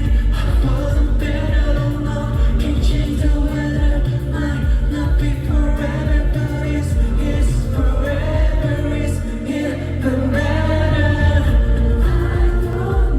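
A pop song performed live: a male singer's voice carrying the melody over a backing track with a heavy, steady bass.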